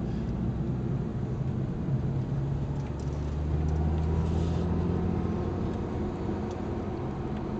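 Ford Focus ST's turbocharged five-cylinder engine running at steady low revs, a deep even drone with a slight swell in the middle.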